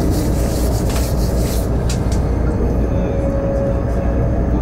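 Steady rumble and rush of a high-speed electric train running on elevated track, heard from inside the carriage, with a few brief hissing bursts in the first couple of seconds.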